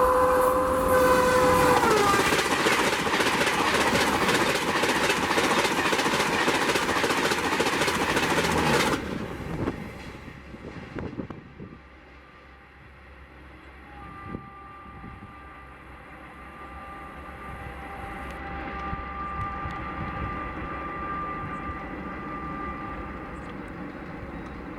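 Indian Railways express train passing at speed: its locomotive horn sounds and drops in pitch as it goes by, then the coaches rush past with wheels clattering over the rail joints. The noise cuts off sharply about nine seconds in, leaving a fading rumble.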